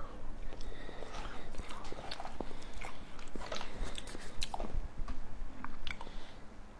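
Chewing and biting with wet mouth clicks, a person eating food with many sharp, irregular clicks and smacks.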